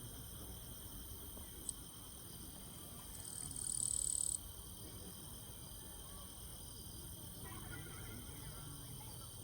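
Steady high-pitched trilling of night insects, with a louder high buzz for about a second, three to four seconds in, over a low background rumble.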